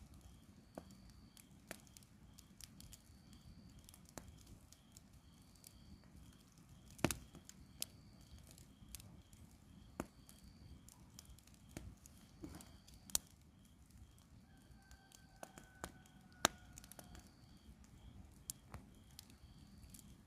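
Campfire crackling, with irregular sharp pops from the burning wood, two of them louder, about a third of the way in and again past the three-quarter mark. A faint high chirp repeats about every second and a half.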